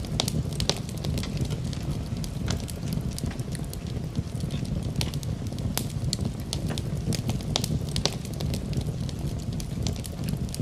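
Wood fire burning in a fireplace: a steady low roar of the flames with frequent irregular sharp crackles and pops of the burning logs.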